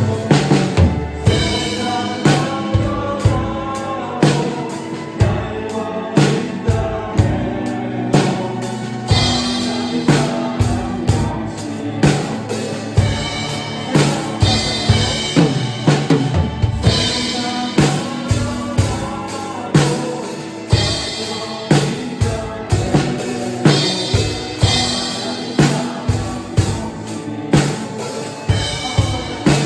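Drum kit played along to a recorded worship song with singing: steady kick and snare beats with cymbals over the backing track.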